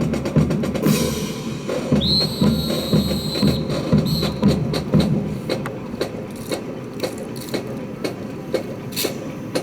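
Percussion drums keeping a steady beat about twice a second, giving way after about five seconds to lighter, sharp clicks and knocks. A high, steady tone sounds briefly about two seconds in.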